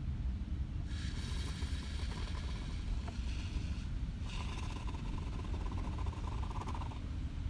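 Expanding foam hissing out of a pressurised can in two spurts of about three seconds each, the second with a thin whistling tone. A steady low rumble runs underneath.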